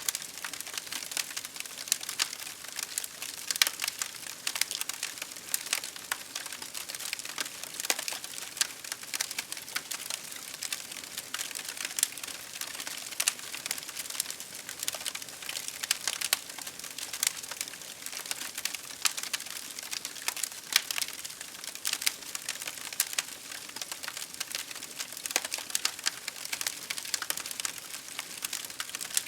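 Wood fire crackling with many irregular sharp pops, over a steady hiss of rain.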